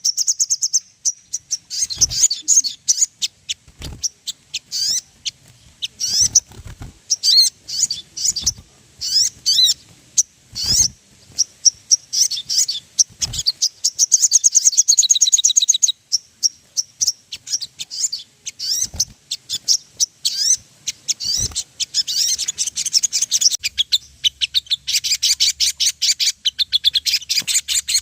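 Sogon sunbird singing a fast, high-pitched song of rapid chirps and twitters, with stretches of quick rattling trills. It is a lure or training recording of the kind played to make caged sogon birds sing. A few sharp clicks stand out among the notes.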